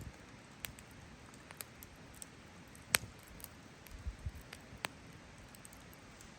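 Wood fire crackling, with scattered small pops and one sharp loud crack about three seconds in, and a couple of dull low thumps shortly after.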